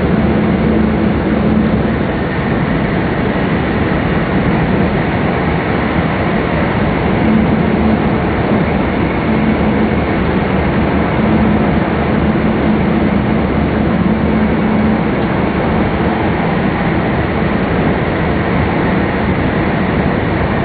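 Cabin noise inside a Jōetsu Shinkansen MAX double-deck train running at speed, heard from an upper-deck seat: a steady rushing rumble with a low hum that swells and fades every few seconds.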